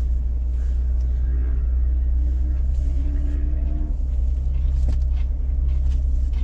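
Jeep Wrangler JK's 3.6-litre V6 engine pulling at low revs as the Jeep crawls over rocks, under a heavy steady low rumble. One sharp knock about five seconds in.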